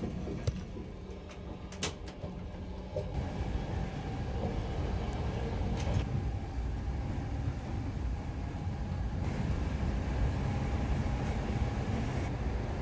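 Running noise of a moving passenger train heard from inside, a steady low rumble that grows louder about three seconds in. A couple of sharp clicks come in the first two seconds.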